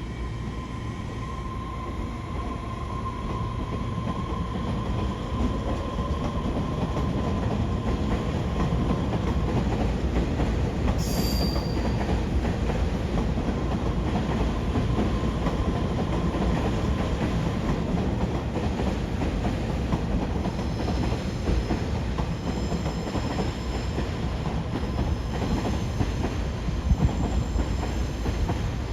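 A Taiwan Railway EMU3000 electric multiple unit running on the track: a steady, loud rumble of wheels on rails that builds over the first few seconds and then holds. Thin high tones join in for the last third.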